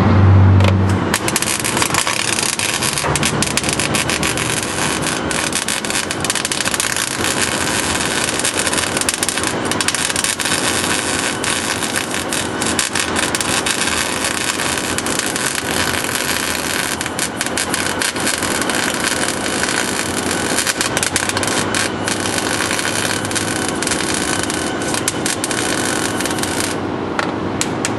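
Wire-feed welder arc crackling and sizzling on the sheet-metal cab-corner patch. It is a steady crackle with frequent brief breaks, starting about a second in and stopping near the end.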